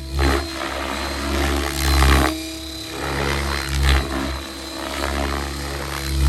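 Electric RC helicopter (Whiplash 730 with 690 mm main blades) in flight: steady whine of the motor and gears under the whoosh of the rotor blades, which swells loudly about every two seconds.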